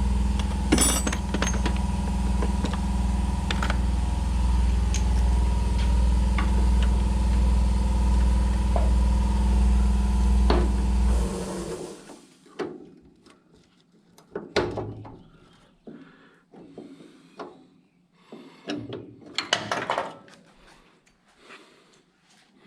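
A motor runs at a steady, unchanging pitch for about eleven seconds and then cuts off suddenly. After that come scattered knocks and clatter of tools and metal being handled.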